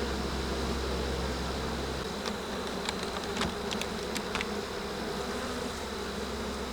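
Honeybees buzzing steadily around an open hive as its frames are inspected, with a few light clicks in the middle.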